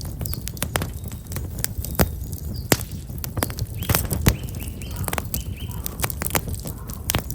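Black locust firewood crackling in an open campfire, with irregular sharp pops a few times a second over a low steady rumble. Small birds chirp briefly a few times around the middle.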